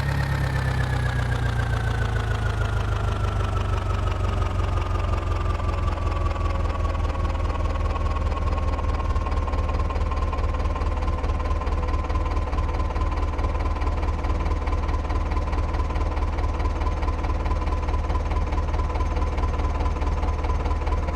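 New Holland 4710 tractor's diesel engine running steadily with a high whine above the rumble; the engine speed eases down over the first several seconds, then holds level.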